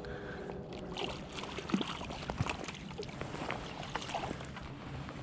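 Irregular splashing and dripping water over a flowing creek, as a hooked wild brown trout is played and brought to the net.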